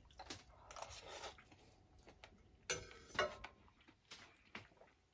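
Faint sounds of a person eating a forkful of chicken: a few soft, irregular clicks and small mouth sounds of chewing.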